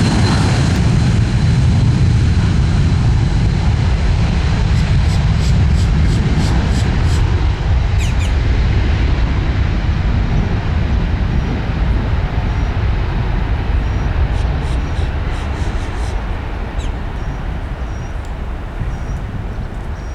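Jet airliner engines, a loud rumble that slowly fades as the aircraft moves away. A thin high whine fades out within the first few seconds.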